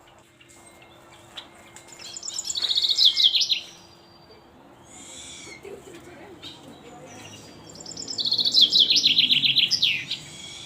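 A songbird singing two loud phrases about five seconds apart, each a rapid run of high chirping notes stepping downward in pitch, with fainter chirps in between.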